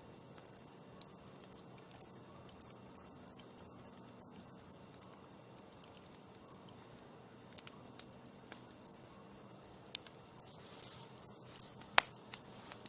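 Wood campfire crackling: irregular sharp snaps and pops over a faint steady hiss. The pops come thick in the first few seconds, thin out in the middle, and pick up again near the end, with one louder snap about twelve seconds in.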